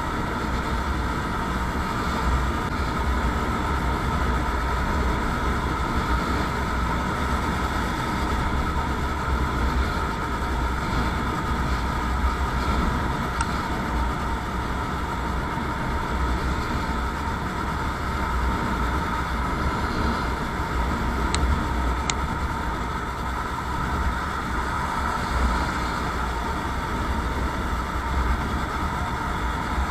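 Motorcycle under way at a steady speed: an even engine drone mixed with road and wind noise, with no rise or fall in pitch. Two faint clicks come about two-thirds of the way through.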